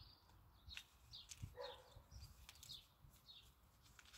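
Faint bird chirps: short high calls, each dropping in pitch, about two a second.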